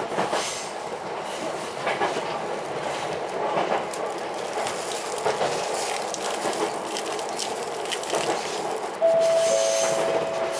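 Ichibata Electric Railway 7000-series electric railcar running, steady rail noise with wheels clicking over rail joints. About nine seconds in, a loud steady two-note tone sounds for about two seconds.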